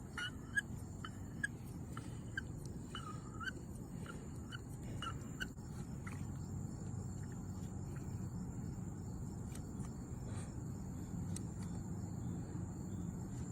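Primer bulb on a Toro string trimmer being pressed over and over, a string of short squeaks and clicks through the first five seconds or so while the fuel system is primed for a cold start. A low steady hum runs underneath.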